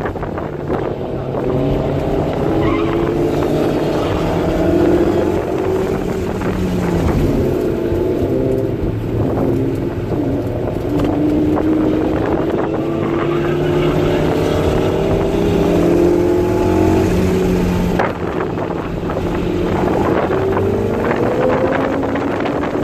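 Honda S2000's F22C four-cylinder engine, with aftermarket intake and header, pulling hard under load as heard from inside the cabin. Its pitch climbs in several long sweeps and drops back between them, most sharply about 18 seconds in.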